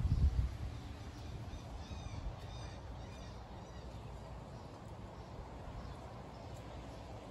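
A bird calling repeatedly, a quick series of short high calls about two to three seconds in and a few fainter ones later, over a low steady rumble.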